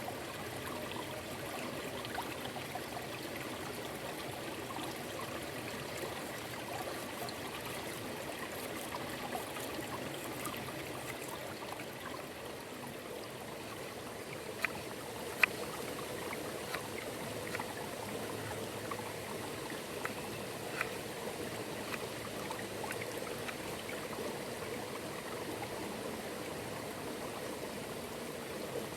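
Steady running water of a stream, with a few sharp clicks, the loudest two about halfway through.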